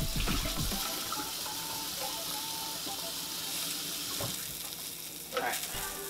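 Sausage patties sizzling in a frying pan, a steady hiss, with a kitchen tap running into the sink for about the first second.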